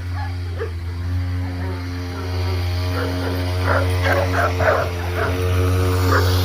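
Puppies yapping in quick short barks, starting about halfway through, over background music with a steady deep bass.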